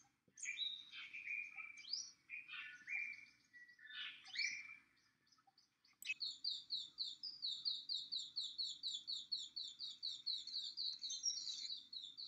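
Wild birds calling: a mix of chirps and falling whistles, a short pause, then an abrupt switch about six seconds in to a fast, even series of high notes, about four a second.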